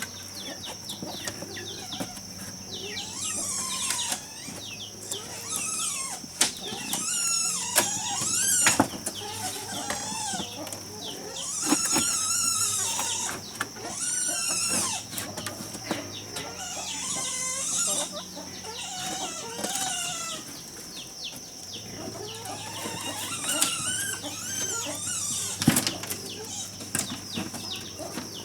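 Chickens clucking and calling in short gliding notes, mixed with high warbling chirps, over a steady high insect drone, with a few sharp knocks.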